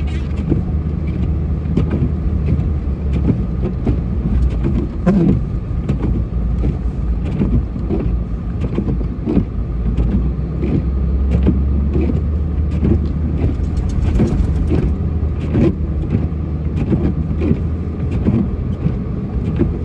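Snow-plow truck driving through snow: a steady low engine and road rumble with frequent short clunks and rattles.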